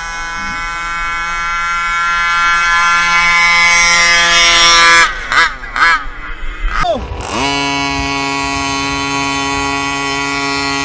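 Small gas engine of a 1/5-scale RC truck running at a steady high speed, blipped up and down a few times about five seconds in, then settling into a steady run again.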